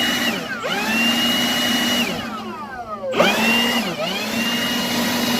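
Leaf blower running on its high-speed setting: a loud motor whine that dips briefly about half a second in, falls away around two seconds in, then spins up again about three seconds in and dips once more around four seconds.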